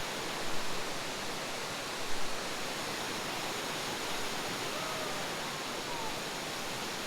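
Steady rushing roar of a waterfall, an even wash of falling water.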